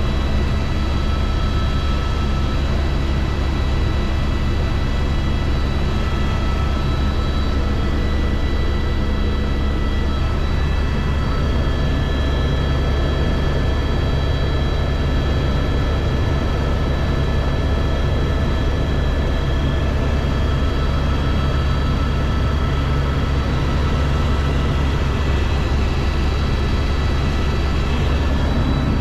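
Helicopter engine and rotor running steadily, a loud continuous low rumble with a few steady whining tones above it.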